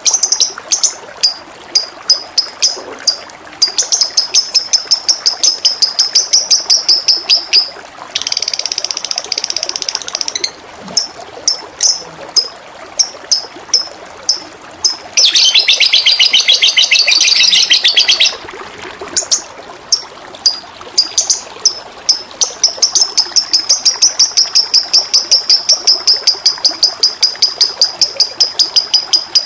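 A small songbird singing over steadily running water: rapid series of high chirps and trills, with two longer stretches of dense, rattling song at about 8 s and 15 s in.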